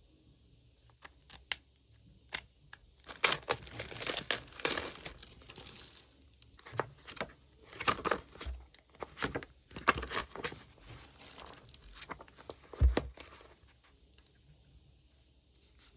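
Packaging crinkling and tearing as it is opened by hand, in a run of short rustles and sharp clicks that stops near the end.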